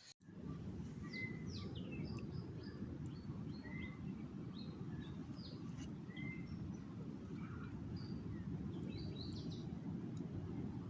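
Several birds chirping and calling in short, scattered notes over a steady low background rumble of outdoor noise.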